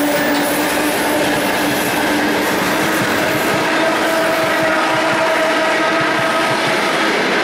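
Freight train wagons rolling past on the rails: a steady rumble and wheel noise, with a drawn-out wheel squeal of several pitches over it.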